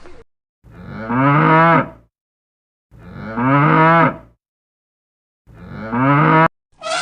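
Cow mooing: three long moos, each rising into a loud drawn-out call, separated by silent gaps; the third is cut off suddenly.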